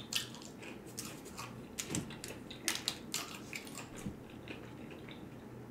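Close-miked chewing of crispy breaded fried chicken: irregular crunchy clicks and wet mouth smacks, thinning out near the end.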